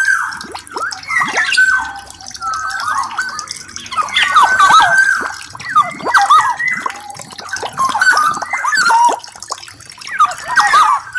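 Black-naped oriole singing: liquid, fluty whistles sliding up and down, delivered in quick repeated phrases with short pauses between them, mixed with sharp clicking notes.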